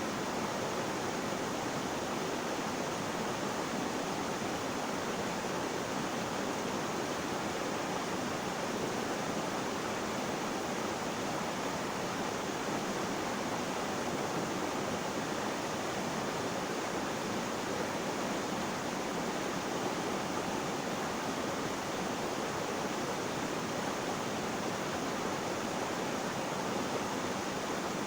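Flowing water, a steady, even rush that does not change.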